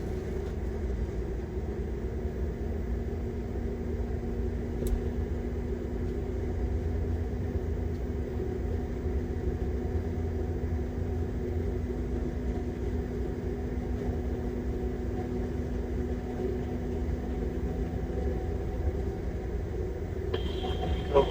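Airliner engine noise heard from inside the cockpit during the start of engine two: a steady low rumble with steady hums. A high whine joins about a second before the end.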